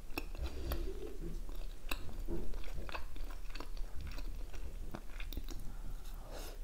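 Close-up chewing of homemade chicken shawarma in soft lavash, with many small mouth clicks and smacks; another bite is taken near the end.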